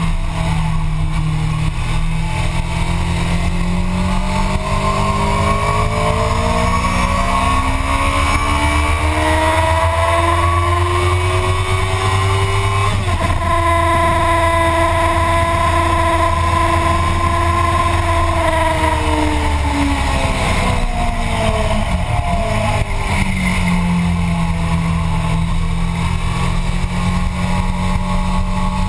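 Motorcycle engine at speed on a race track: the revs climb slowly for about twelve seconds, hold high after a brief break near the middle, then fall away and settle low near the end. A strong low rush of wind noise runs beneath the engine.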